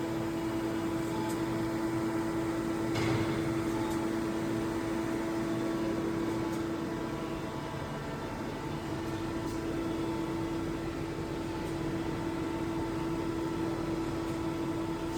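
TRAUB TNA300 CNC turning and milling centre running under power: a steady mechanical hum with a constant mid-pitched tone, and a brief louder rush about three seconds in.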